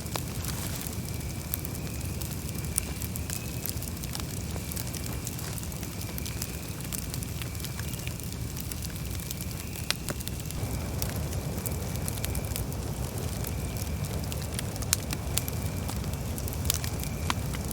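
Campfire burning, with scattered sharp crackles and pops over a steady low rush.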